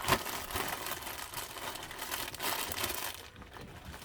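Crinkling and rustling from goods being handled close to the microphone, with a sharp knock right at the start.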